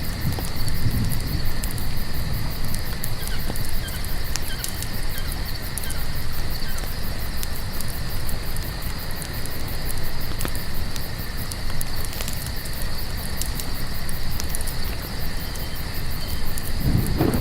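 Crickets trilling steadily in high, unbroken tones over a low rumble, with scattered sharp pops and crackles of a campfire.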